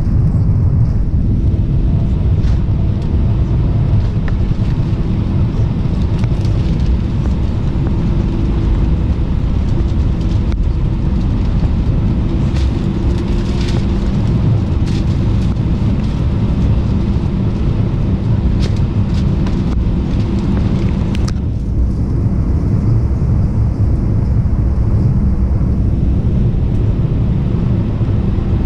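Airbus A319 cabin noise: a steady, loud, low rumble of the engines and airflow, with a few light clicks in the middle.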